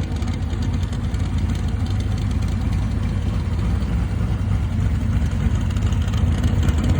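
1966 Shelby 427 Cobra's big-block Ford V8 idling steadily through its exhaust, a deep, rapid pulsing.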